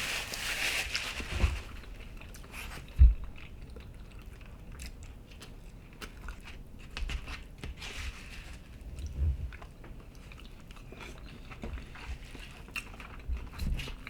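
People chewing and eating a breakfast of pancakes and hash browns close to the microphone, with scattered small clicks and knocks and one loud thump about three seconds in.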